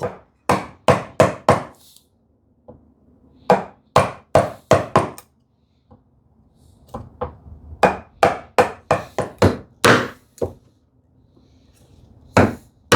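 Mallet striking a bench chisel, chopping out a housing dado across the grain of a wooden drawer side: sharp wooden knocks in short runs with pauses, the quickest run of about ten blows coming past the middle.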